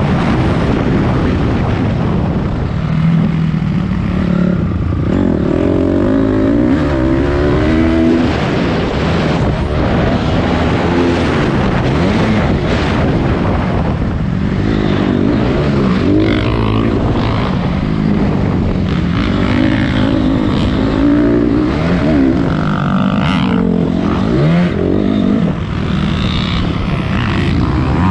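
A Honda CRF250 dirt bike's single-cylinder four-stroke engine being ridden hard, its pitch climbing and dropping again and again as the throttle is opened and shut.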